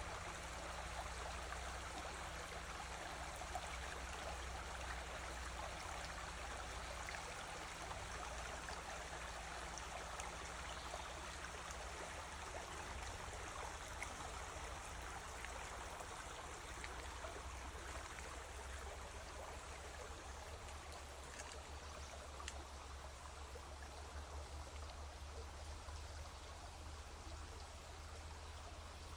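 River water flowing steadily, an even rushing and trickling of stream water.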